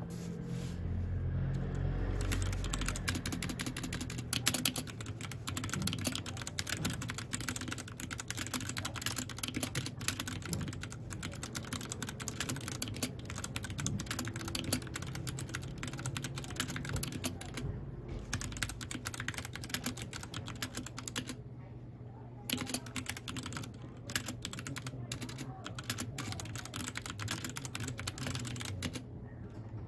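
Mechanical keyboard being typed on in quick, continuous runs of key clicks, broken by a few short pauses.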